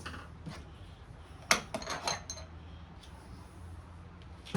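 Metal parts clinking on a table as they are handled and set down: one sharp clink about a third of the way in, then a quick run of lighter, ringing clinks, and another clink at the end.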